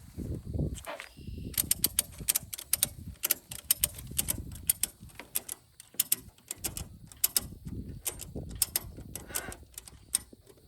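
Ratchet tie-down strap being worked: runs of sharp clicks with handling and rustling noise underneath.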